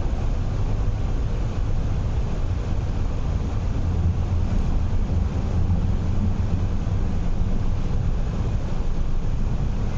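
Steady low rumble of an MTR R-train electric multiple unit heard from inside the carriage while running at speed, the wheels rolling on the track.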